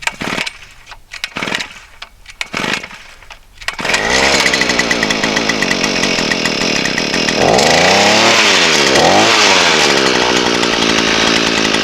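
Earthquake E43 43cc two-stroke power auger engine being pull-started on choke: a few short tugs of the recoil starter, then it catches about four seconds in and runs steadily. It revs up and back down twice near the middle.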